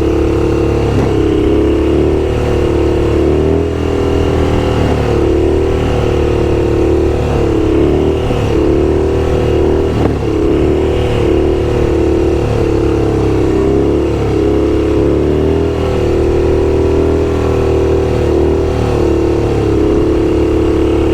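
Motorcycle engine running under way, a steady drone whose pitch dips briefly and recovers several times as the throttle eases and opens.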